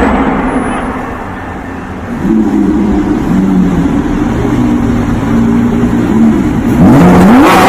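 A sports car's engine running, its pitch climbing sharply near the end as it revs. Before that, a loud rushing noise fades over the first couple of seconds.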